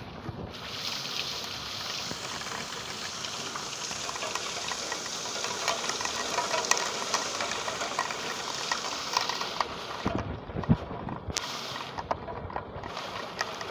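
Rain falling: a steady hiss made of many fine drop ticks. From about ten seconds in the hiss thins and breaks off in places, and a few louder knocks of heavier drops stand out.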